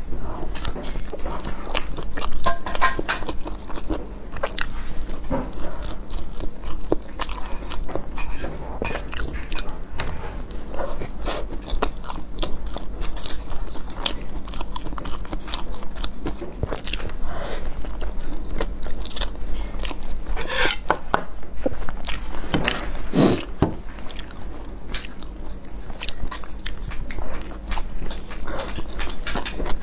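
Close-miked eating of a soft steamed bun (baozi): bites and chewing, heard as a steady run of small wet mouth clicks. A couple of louder mouth sounds come about two-thirds of the way through.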